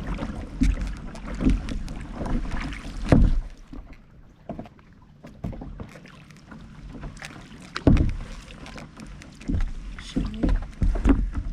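Kayak paddling: irregular paddle splashes and water sloshing, over a low rumble of wind on the microphone. There is a quieter spell about four to six seconds in.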